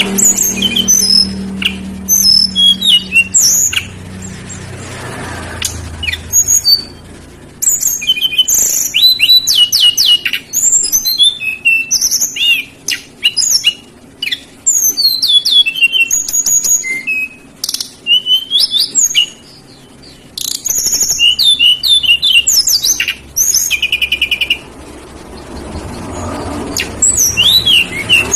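A tledekan gunung songbird singing a long, rapid, varied song of sweeping high whistles, chirps and trills in quick phrases with short pauses. This is the energetic full song ('gacor') that keepers play to set other birds singing.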